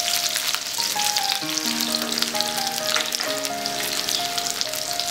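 Whole boiled potatoes sizzling in hot oil in a kadai as they are stirred, a steady dense crackle. A background music melody plays over it.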